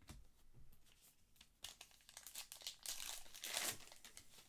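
Trading-card pack wrapper being torn open and crinkled by hand, with a stretch of rustling and crackling that is loudest in the middle.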